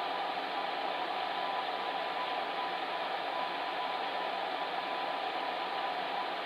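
Electric fan heater running steadily: an even rushing of blown air with a faint steady hum.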